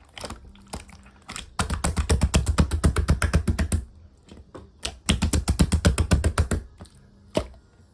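Clear green slime being squished and pressed by hand, giving rapid sticky clicking pops. Two runs of fast pops, each about two seconds long, with a few single pops before, between and after.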